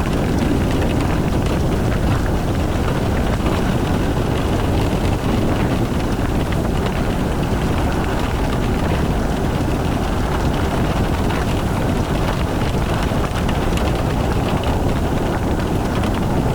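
Steady noise of a car driving in the rain: road and wind noise with rain, even throughout and strongest in the low range.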